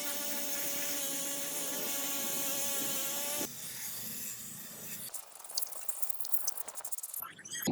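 An electric power tool's motor whining steadily for about three and a half seconds, then cutting off, followed by a softer hiss and a run of quick clicks near the end.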